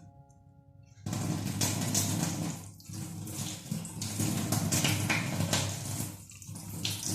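Water running from a tap into a sink, starting about a second in, its rush briefly broken twice as something is moved through the stream.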